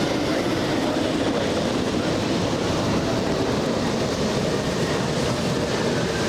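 Steady jet engine roar of a landing Airbus A380.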